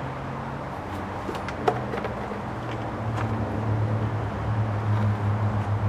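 A steady low mechanical hum, like an engine or motor running in the background, growing louder about three seconds in, with a few light clicks.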